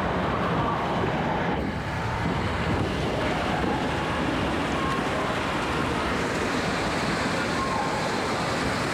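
Steady rush of water and a crowd's din in an indoor waterpark, with faint distant voices now and then.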